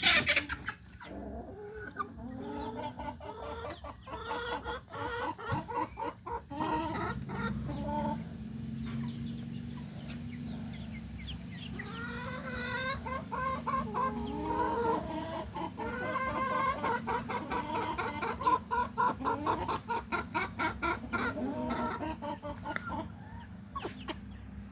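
A flock of chickens clucking and calling over and over, many birds at once. A steady low hum runs underneath from about seven seconds in.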